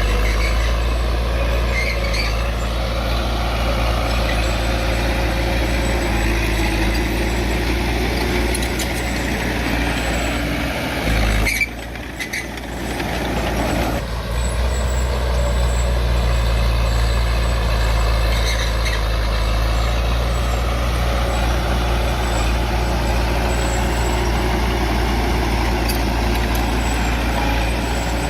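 Heavy diesel engine of earthmoving machinery running steadily, with a brief drop in sound about twelve seconds in before it picks up again.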